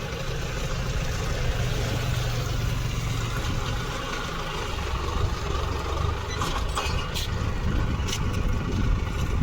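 Diesel tractor engine running steadily, with a few light clicks in the second half.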